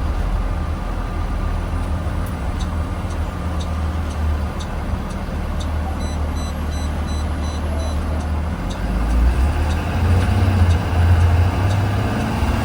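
Blue Bird Vision school bus engine running as the bus drives, heard from inside the bus. A steady low drone grows louder about nine seconds in, with a faint regular ticking through the middle.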